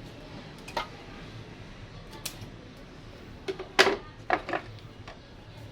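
Scattered sharp clicks and clacks of hand tools working on a twin-tub washing machine's spin-dryer motor wiring. There is one click about a second in and another about two seconds in, and the loudest group comes about three and a half to four and a half seconds in.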